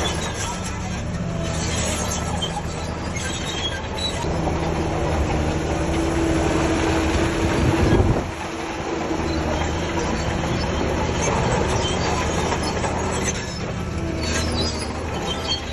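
Shantui DH17C3 crawler bulldozer working, its diesel engine running with its steel tracks clanking and squealing. The sound grows louder to a peak about eight seconds in, then falls off suddenly.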